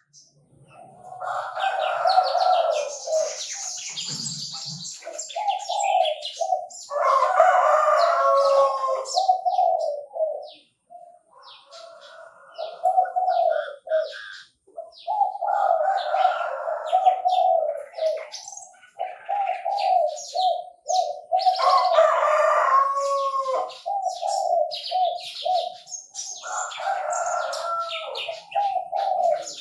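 Chinese francolin (đa đa) calling in repeated phrases, a louder phrase about every five to six seconds with lower calling in between.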